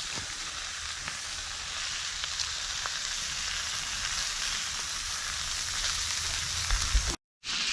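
Flat iron steaks sizzling as they sear in a hot pan with butter: a steady frying hiss with a few small pops.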